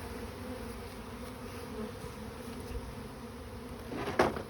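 Honeybee swarm buzzing steadily around an open hive box, with a sharp knock near the end.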